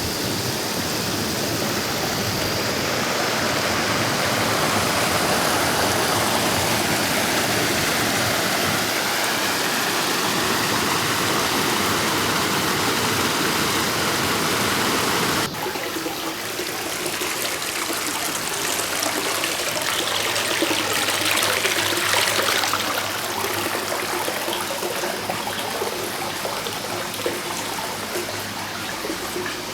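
Mountain stream rushing steadily over rocks. About halfway through, the sound changes abruptly to a second stretch of running water, which swells brighter for a few seconds.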